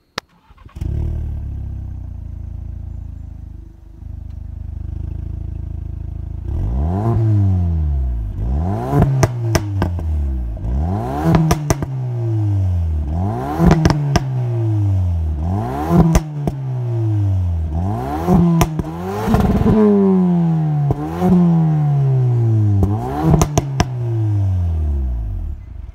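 Ford Focus ST's 2.3 EcoBoost turbocharged four-cylinder petrol engine idles for a few seconds, then is blipped about nine times, roughly every two seconds. Each rev rises quickly and falls back slowly, with crackles and pops from the exhaust as the revs drop.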